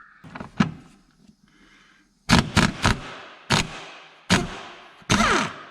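Sharp knocks and cracks, about seven in all, each dying away quickly, as the 14 mm bolts at the Volvo 240's gearbox are broken loose; a gap comes about a second in, and the strikes bunch up from about two seconds in.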